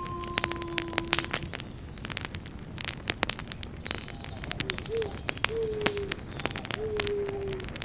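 Campfire crackling, with many sharp irregular pops and snaps over a low steady noise. In the second half a few short, low whistling tones sound, each falling slightly.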